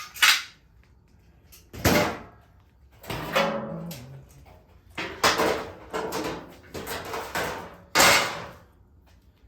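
Scrap parts from a dismantled washing machine being handled and set down: a string of sharp knocks and clatters, with a louder knock about two seconds in and another near the end.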